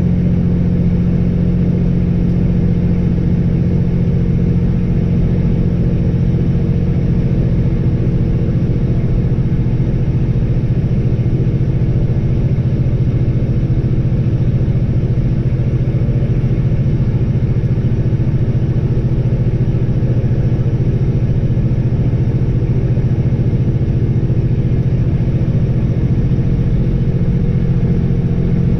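Peterbilt 359 semi truck's diesel engine running steadily under way, a constant low drone that holds one pitch throughout.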